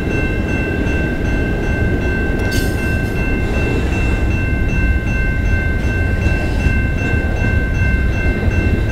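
Freight cars of a CN freight train rolling past: a steady low rumble of wheels on rail, with a steady high-pitched tone held over it.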